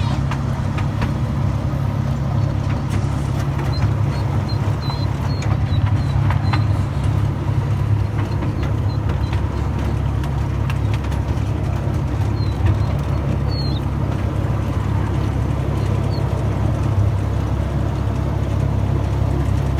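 Miniature railway train running, a steady low rumble, with a few faint short high squeaks.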